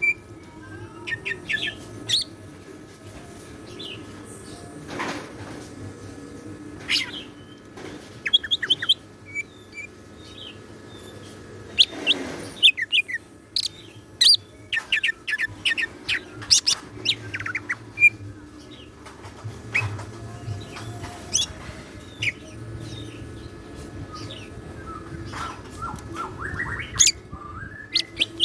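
Cucak ijo (greater green leafbird) singing in bursts of sharp chirps and rapid whistled phrases, with short pauses between them. Two brief, broad rustling noises come about 5 and 12 seconds in.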